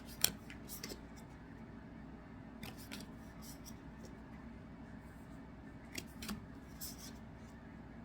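Trading cards and packs being handled: scattered short crisp snaps and rustles as cards are slid and flicked through a stack.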